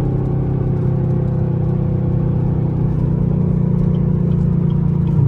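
Straight-piped 2017 Camaro SS's 6.2-litre V8 running at a steady cruise, heard from inside the cabin as a constant deep exhaust note; the note shifts abruptly right at the end.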